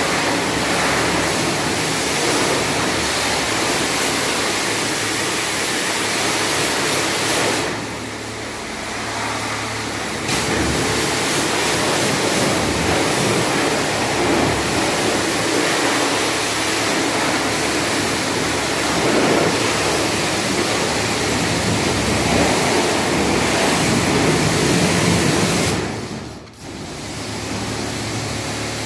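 Car-wash spray gun hissing steadily as it sprays the engine bay, easing off about eight seconds in and cutting out briefly near the end.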